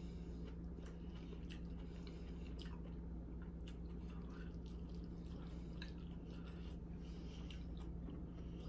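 Close-miked chewing and mouth sounds of someone eating baked spaghetti squash, with a metal fork scraping and scooping the strands from the squash shell. Scattered small clicks sit over a steady low hum.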